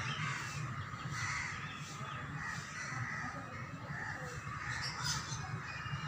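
Several short, harsh bird calls over a steady low hum, with a sharp click about five seconds in.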